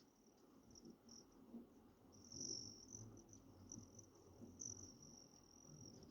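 Faint, high-pitched buzzing of hummingbird wings, swelling and fading as the birds dart around the feeders, with short breaks.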